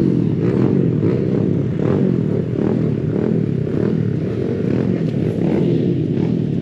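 Several small pit bike engines racing together, revving up and down over one another as the bikes run the course.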